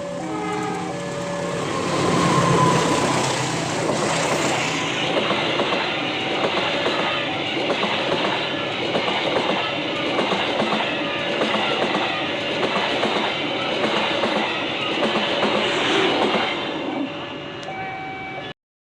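Train passing close by over a level crossing, its wheels clacking over the rail joints in a steady rhythm. The crossing's electronic warning chimes sound behind it. The sound cuts off abruptly near the end.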